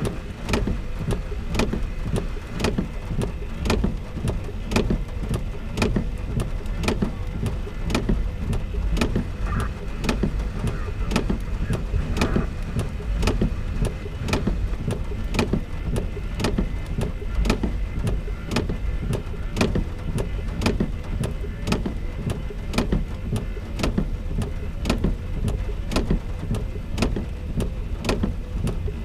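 Raindrops ticking sharply on a car's roof and glass about twice a second during a thunderstorm, over a steady low rumble.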